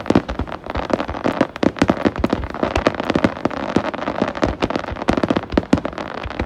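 Fireworks going off in a rapid barrage: dense, irregular bangs and crackles, several a second.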